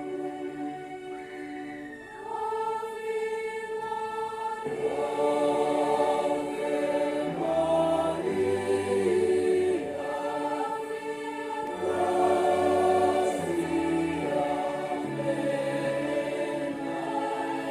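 Church choir singing a hymn in several parts, in long held chords that change every second or two.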